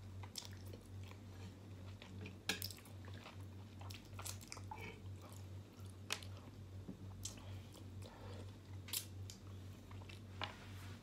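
A person chewing and biting chicken and rice eaten by hand, with scattered wet smacks and small clicks at close range. A low steady hum runs underneath.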